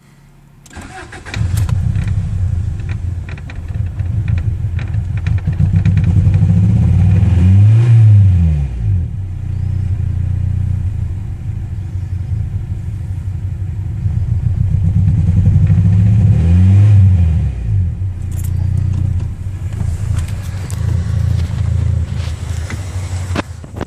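Honda H22A four-cylinder engine in a 1994 Prelude starting about a second in, then running rough with a misfire and being revved up and back down twice. The misfire appeared after the engine bay was washed with degreaser.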